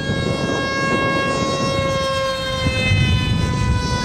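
RC model airplane in flight: a steady high whine from its motor and propeller that slowly drops in pitch, over a low rumble.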